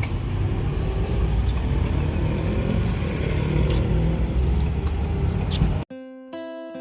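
A delivery truck's engine running with a steady low rumble and a few faint clicks. About six seconds in it cuts off abruptly to acoustic guitar music.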